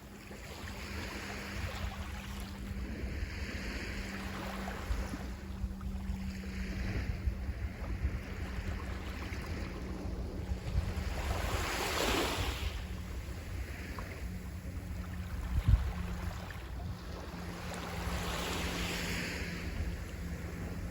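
Sea waves breaking and washing on the shore in swells every few seconds, the biggest about twelve seconds in. Wind rumbles on the microphone, a steady low hum runs underneath, and a short thump comes about three-quarters of the way through.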